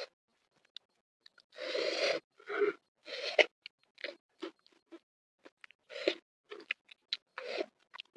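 Close chewing and crunching of crispy flour-battered fried tuna, eaten by hand: a longer crunch about a second and a half in, then irregular short crunches and sharp clicks.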